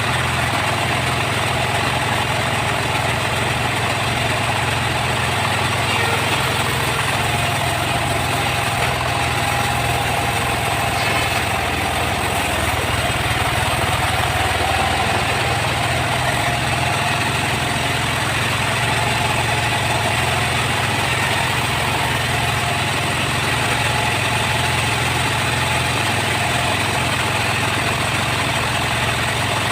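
Sawmill machinery running steadily: a constant engine hum with no change in speed.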